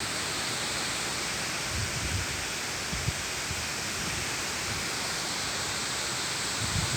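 Peepal (sacred fig) leaves rustling and clattering against each other in the wind, a steady dense hiss with a few soft low rumbles about two to three seconds in.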